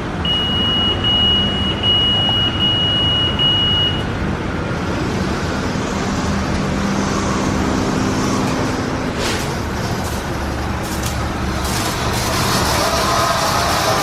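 PDQ ProTouch Tandem automatic car wash machinery running around a car, with a steady high-pitched beep for the first four seconds or so. A few clicks follow, then a hiss of spraying starts near the end.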